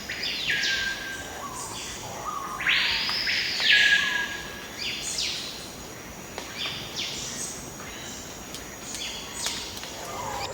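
Jungle ambience: many birds calling over one another in short, harsh, rasping notes, one longer arching call about three seconds in, over a steady high insect hum.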